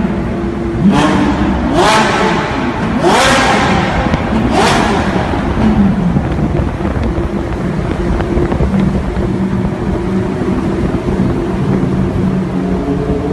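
Lamborghini engine revved in four quick, sharp blips, each rising in pitch, then settling into a steady note. The pitch starts to rise again near the end.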